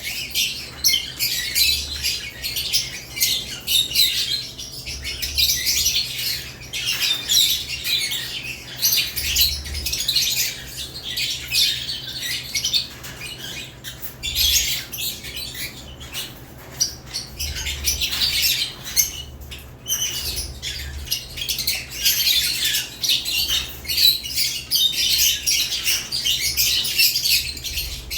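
Caged lovebirds chirping and squawking without a break, many short, high calls overlapping one another.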